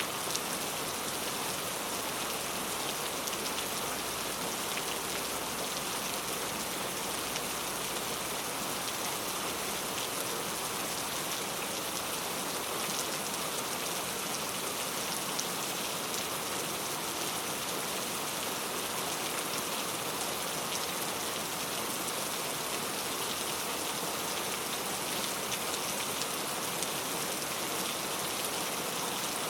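Steady heavy rain falling, a dense even hiss of drops on surfaces.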